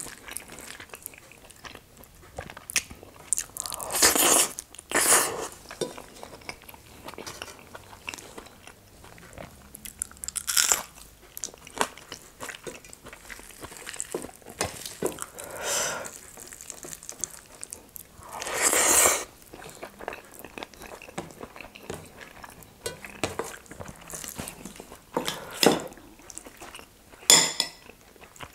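Close-miked eating: chewing and wet mouth clicks as a woman eats rice, dal and greens by hand, with a few longer, louder mouth sounds, the loudest about two-thirds of the way through.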